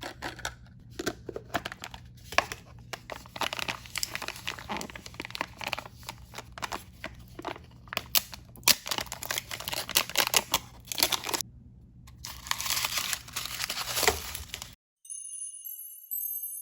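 Plastic blind bag packaging being crinkled and torn open by hand: a dense run of irregular crackles and rips, pausing briefly about two thirds of the way in. Near the end it cuts off and jingly tinkling music begins.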